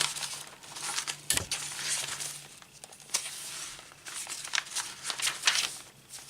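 Paper rustling and crinkling in irregular bursts as the pages of a handmade paper journal, with tissue paper among them, are turned and handled.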